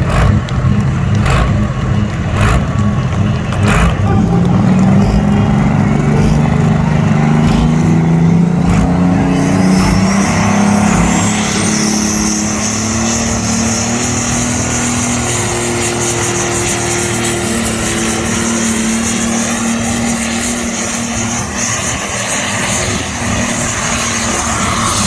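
Competition pulling tractor's engine running hard under load, its pitch rising over several seconds. A high whine climbs and then holds steady alongside it. A few sharp cracks come in the first seconds.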